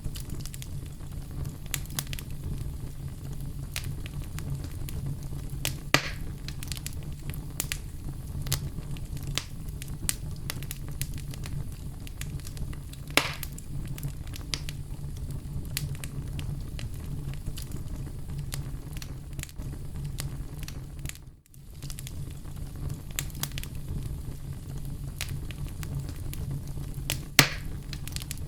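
Oak logs burning in a fireplace: a steady low rumble of the fire with constant small crackles, and three louder pops spread through. The sound briefly dips about three-quarters of the way through.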